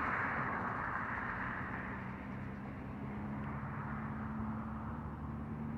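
Freight train rumbling away after passing, its noise fading steadily. A low steady hum comes up about a second and a half in.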